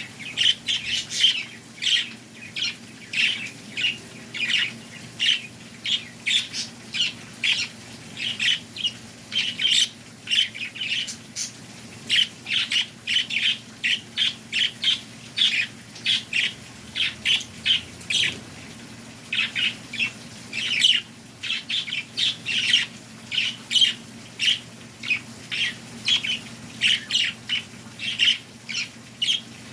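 Birds chirping and squawking in a dense run of short, sharp calls, several a second.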